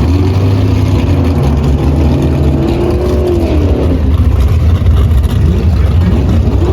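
Drag-racing car engines running loudly, with a deep steady rumble and an engine note that rises and falls a couple of times.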